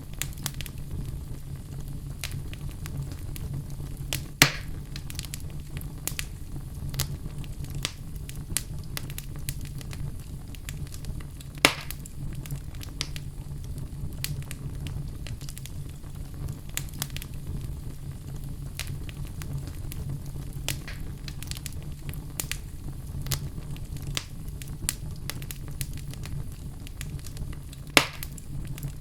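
Fire crackling: a steady low rumble with many small crackles, and three louder sharp pops, about four seconds in, near the middle and near the end.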